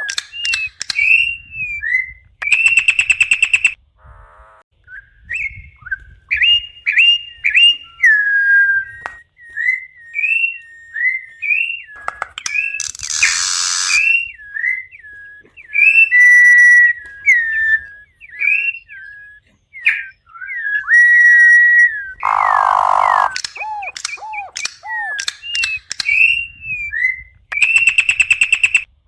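Campo troupial (corrupião) singing a long run of clear, slurred whistled notes, with two short raspy notes partway through.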